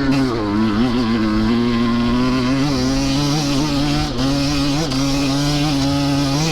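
Husqvarna TE150 two-stroke dirt bike engine running under way, its revs wavering up and down, with a dip in pitch about half a second in.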